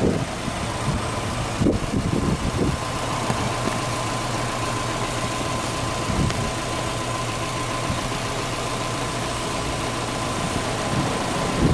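Subaru GC8 Impreza WRX's turbocharged EJ20 flat-four boxer engine idling steadily.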